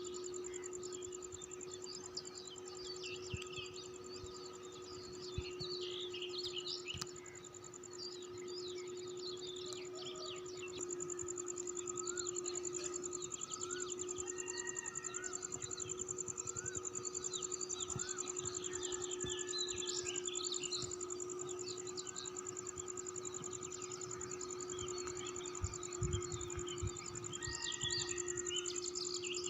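Many birds chirping and calling at once in a morning chorus, over a continuous high-pitched insect trill.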